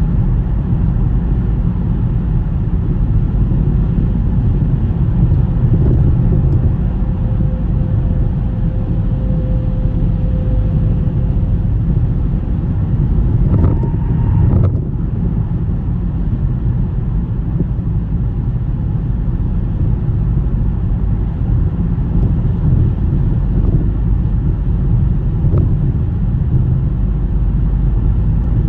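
Car driving on a snowy road: a steady low rumble of engine and tyres, with two short knocks about halfway through.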